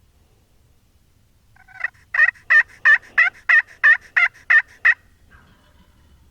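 A turkey call run as a series of hen yelps: about ten loud, evenly spaced notes, about three a second, starting about two seconds in.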